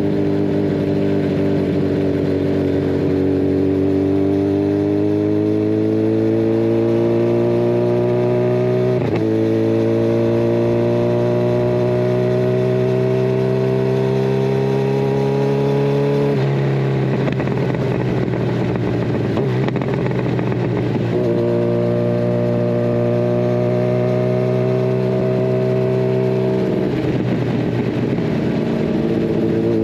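Kawasaki Ninja 1000SX inline-four, de-catted and breathing through a Scorpion Red Power exhaust, pulling with its note rising slowly in pitch. The pitch drops sharply at a gear change about nine seconds in, then climbs again. The sound turns rough and uneven on a closed throttle around the middle, holds a steady note, then goes rough again near the end.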